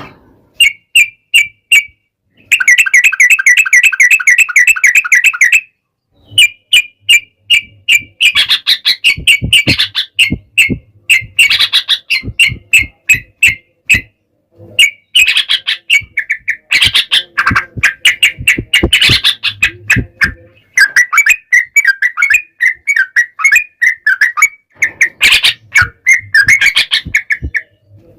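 Yellow-vented bulbuls singing loudly in a fast chattering exchange, short chirps repeated over and over, with a dense rolled run of notes about two and a half seconds in. Later the phrases overlap as more than one bird calls at once, broken by brief pauses, with sharp clicks among them.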